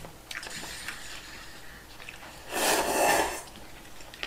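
Mouth sounds of a person chewing a large mouthful of fish cake (eomuk) from udon: soft wet clicks, with one louder rushing sound lasting under a second about two and a half seconds in.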